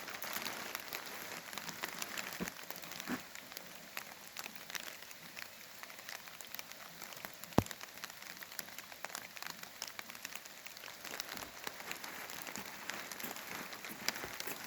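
Heavy rain falling, an even hiss dotted with many small drop ticks, with one sharp click about seven and a half seconds in.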